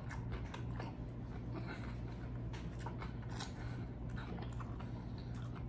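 Close-miked eating sounds: chewing and mouth smacks, a run of small irregular wet clicks, over a low steady hum.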